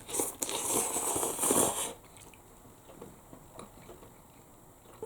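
Noodles being slurped from a fork for about two seconds, then quieter chewing with small mouth clicks.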